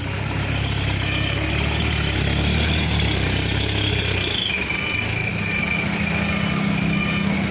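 Mitsubishi Canter dump truck's diesel engine running steadily, its pitch stepping up to a higher, steady speed about four seconds in, with a thin high whine above it.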